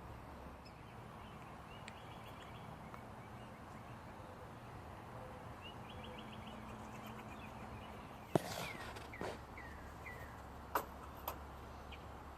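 Faint outdoor background with songbirds calling: two short rapid trills, then a few brief falling chirps. Several sharp clicks or knocks sound in the second half.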